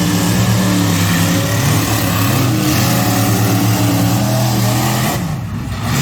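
A vehicle engine running loudly, its pitch shifting up and down, then easing off about five seconds in.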